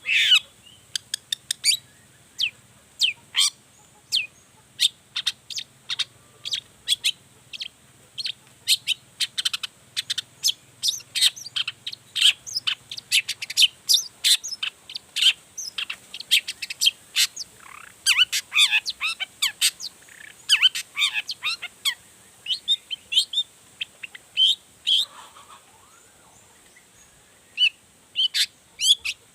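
Long-tailed shrike (cendet) singing hard, a fast, varied stream of short chirps and chattering notes that runs through its repertoire of learned calls, with a brief pause near the end.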